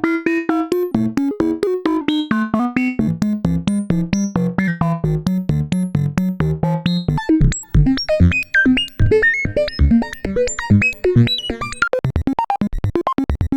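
Roland System-100 software synthesizer playing preset patterns of rapid, evenly repeated short notes over a low bass line. The sound changes to a new patch about seven seconds in, and again near the end to faster, sharper pulses.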